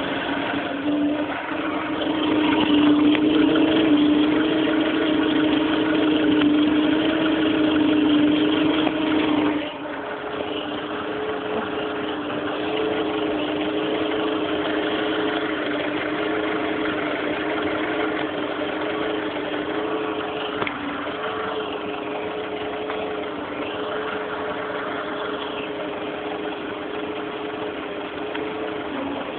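VW Polo 6N2 1.0 four-cylinder petrol engine running steadily with a strong humming tone: the weird noise the owner is trying to trace. About nine and a half seconds in, it suddenly gets quieter and the hum changes, then it runs on evenly.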